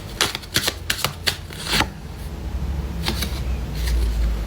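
Tarot cards being shuffled by hand: a quick run of snapping card clicks in the first two seconds, then sparser clicks over a low rumble near the end.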